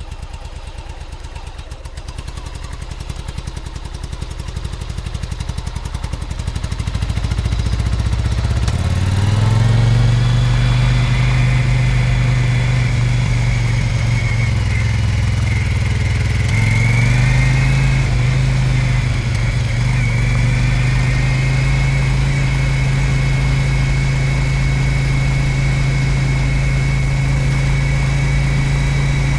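Yamaha Virago 1100 V-twin engine idling with an even pulsing beat, then pulling away. From about nine seconds in it runs at a steady pitch, with a brief dip and rise in pitch around seventeen seconds.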